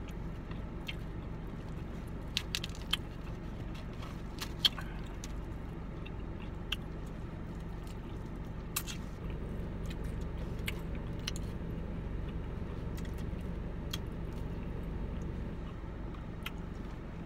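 Close-up eating sounds of fried chicken being bitten and chewed, with scattered sharp crunches and wet smacks. Underneath is a steady low hum inside the car.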